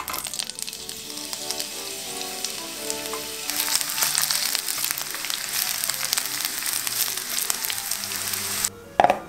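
Aubergine strips sizzling as they fry in hot oil in a nonstick pan while being tipped in and stirred with a spatula; the sizzling gets louder a few seconds in and cuts off suddenly near the end. A single sharp knock follows right after.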